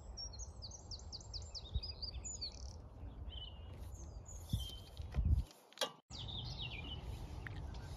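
Small songbirds singing: quick runs of high, falling chirps in three spells, over a steady low rumble of wind on the microphone. A brief low thump about five seconds in.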